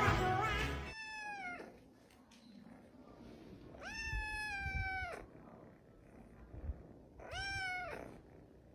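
A cat meowing three times: a short falling meow, a longer drawn-out meow, then a short one. Music cuts off just before the first meow.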